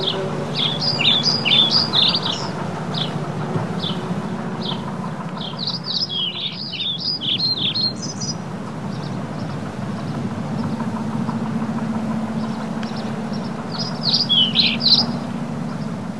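A bird singing in three runs of rapid high chirps, about a second in, around six seconds and near fourteen seconds, with single chirps between. A steady low hum runs underneath.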